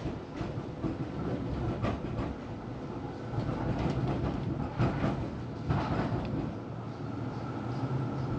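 Melbourne tram running along the track: a steady rumble of steel wheels on the rails, with several sharp clicks and knocks from rail joints, the loudest about five and six seconds in.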